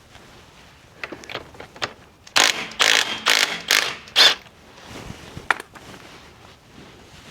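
Impact wrench fired in five short bursts on the motorcycle's front axle nut, after a few light clicks of the socket being fitted.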